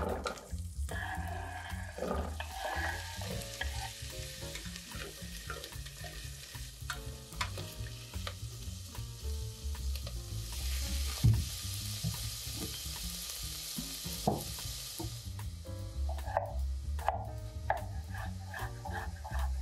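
Sliced celery frying in hot olive oil in a stainless-steel pot, sizzling and being stirred. The sizzle swells loudest about halfway through.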